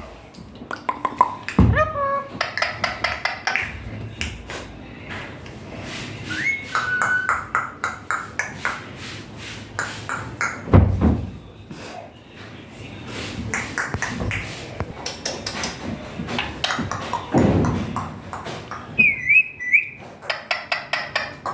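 Ringneck parakeet giving short whistled notes that rise and fall, with many sharp clicks in between.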